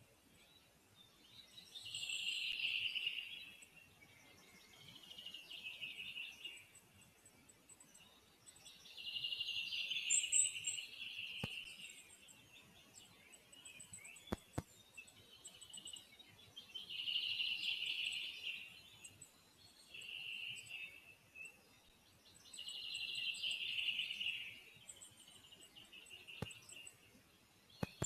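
High-pitched bird calls in short trilling phrases, repeating about every three seconds, over a faint, fast, high ticking.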